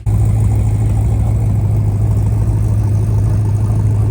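Car engine running steadily with a strong low drone.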